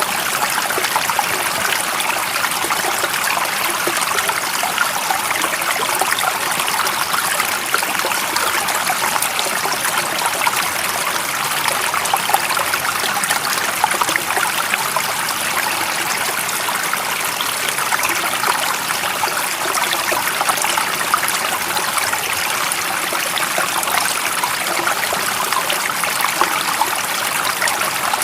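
Running water trickling and splashing steadily, like a small stream, a bright even rush with almost no low rumble.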